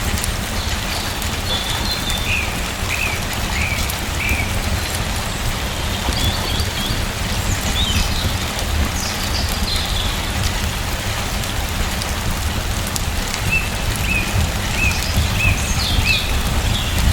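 Steady rain falling, with a bird chirping in short runs of calls a second or so in and again near the end.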